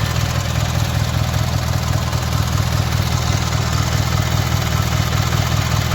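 Montgomery Ward lawn tractor engine idling steadily and evenly.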